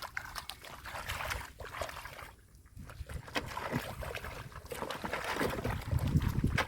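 Shallow muddy water sloshing and splashing in irregular bursts, with a brief lull about two and a half seconds in and heavier splashing near the end.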